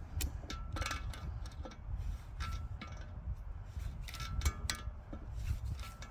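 Irregular metal clinks and clanks, a dozen or so sharp strikes, several ringing briefly, over a steady low rumble.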